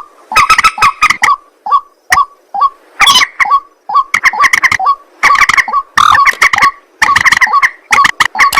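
White-breasted waterhen (ruak-ruak) calling loudly: harsh, clucking notes repeated several times a second in stuttering bursts, with short pauses between the bursts.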